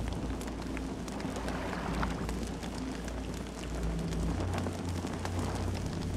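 Campfire burning, with frequent sharp crackles and pops of burning wood over a steady low rumble of the flames.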